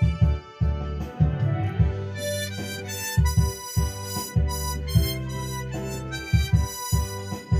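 Harmonica playing a melody in held notes over a bass-heavy backing track.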